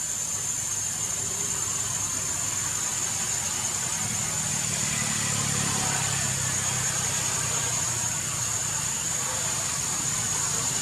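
A steady low mechanical hum, like an idling engine, with a thin high whine above it; the hum swells slightly a few seconds in.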